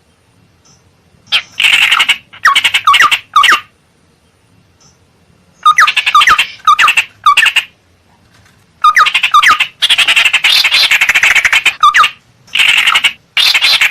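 Ciung air (tit-babbler) lure-call recording: harsh, rapid chattering calls given in four bursts with short pauses between them, played to draw wild birds of the same kind in close.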